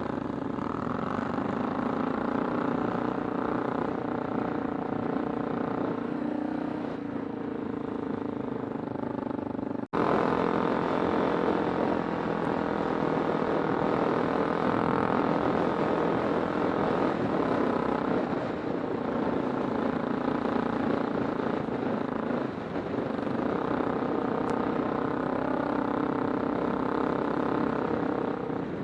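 Kawasaki Super Sherpa's 250 cc single-cylinder engine running steadily under way. There is a sudden break about ten seconds in, and the engine is a little louder after it.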